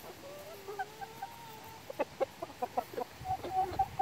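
Chickens calling: one long, wavering drawn-out call in the first second and a half, then a quick run of short clucks.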